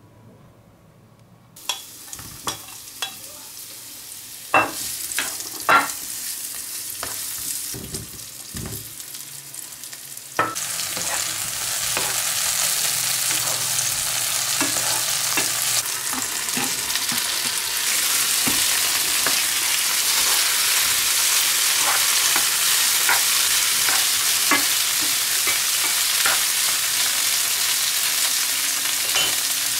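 Sliced leek, cherry tomatoes and squid rings frying in hot oil in a nonstick frying pan. The sizzling starts a couple of seconds in and gets louder and steadier about ten seconds in. A spatula stirring against the pan makes sharp clicks and scrapes throughout.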